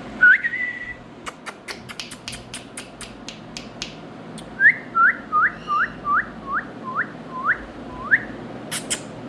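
Indian ringneck parakeet whistling and clicking: one rising whistle held briefly, a run of quick sharp clicks, then a series of about nine short upswept whistles, each starting a little lower than the last.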